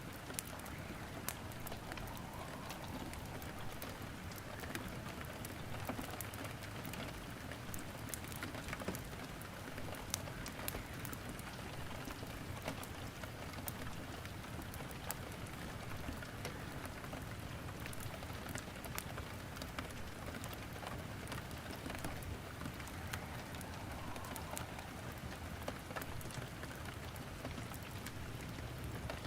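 Steady rain falling, with irregular sharp crackles and pops of wood burning in a fireplace.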